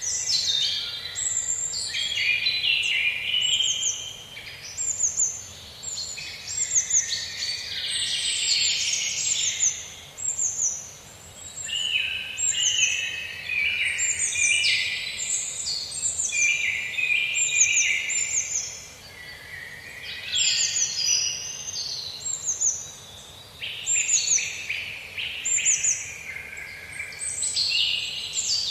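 Several songbirds chirping and singing together: a dense run of short, high, falling chirps and trills that overlap, easing off briefly every few seconds.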